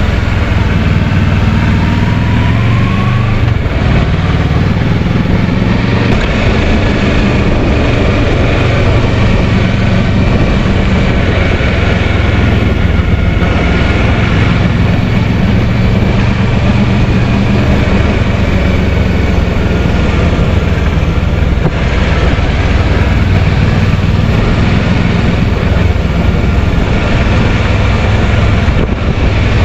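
Kawasaki Versys 650's parallel-twin engine running at a steady pace while riding, with wind noise over it.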